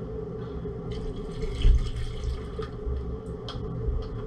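Water or liquid running or being poured for a couple of seconds in a kitchen, starting about a second in, over a steady low hum. A few light clicks follow.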